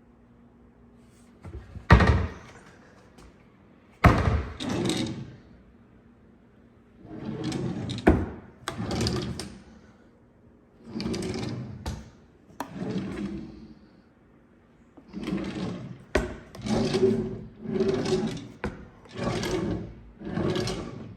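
Kitchen cupboard doors and drawers being opened and shut, with about five sharp knocks and shorter sliding, rattling stretches between them.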